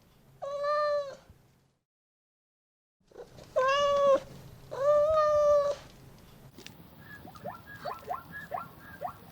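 Cat meowing: three long, even meows, one about half a second in and two more a little after three seconds in, following a short complete break in the sound. Near the end a run of short, rising chirps.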